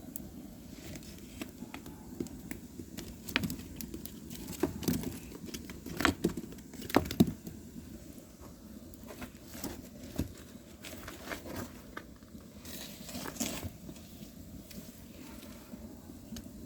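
Firewood burning: irregular sharp crackles and pops over a low steady rumble of flame, the loudest pops coming around six to seven seconds in.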